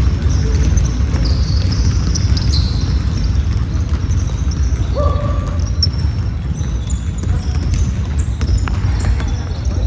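Basketball game sounds in a gym: a ball bouncing on the court and short high sneaker squeaks, over a steady low rumble.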